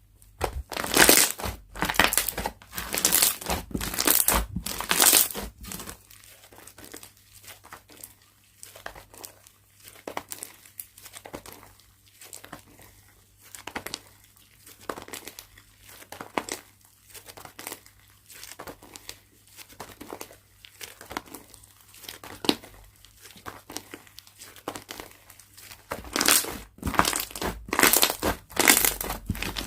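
Slime being squeezed, stretched and folded by hand, giving crackling, crinkling pops. There are loud runs of handling for the first few seconds and again near the end, with softer squishes about once a second in between.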